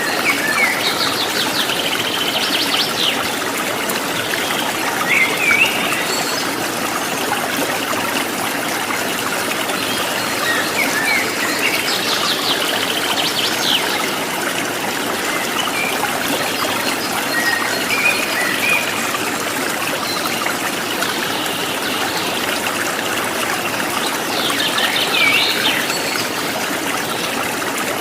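Running water trickling and flowing steadily, with birds chirping in short phrases every several seconds.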